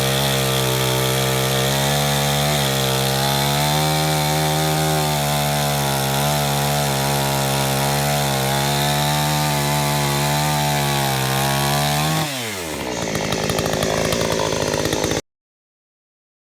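Chainsaw running at steady high revs while cutting a log. About twelve seconds in the engine note drops sharply and gives way to a rougher, noisier sound, which then cuts off abruptly.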